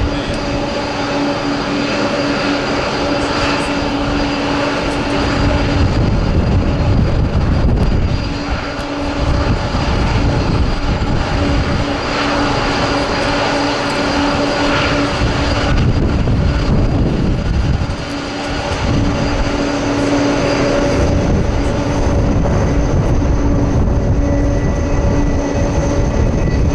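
Jet engines of a Boeing 747-400 freighter running: a steady whine over a loud, deep rumble that briefly drops away twice.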